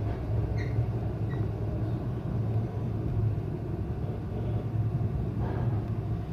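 Steady low hum and rumble of a local electric train heard inside the carriage, with a couple of faint high chirps about a second in.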